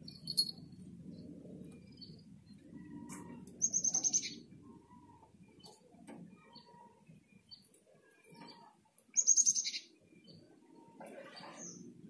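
A small bird chirping: one sharp high chirp right at the start, then two quick runs of high chirps, about four seconds in and again about nine seconds in, over a faint low rumble.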